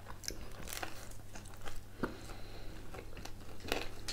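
Close-up chewing and biting of pizza and potato wedges, with scattered crunchy clicks and mouth sounds.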